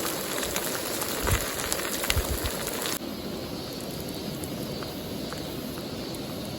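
Food frying in a cast-aluminium campfire frying pan: a steady sizzle with small crackles and pops.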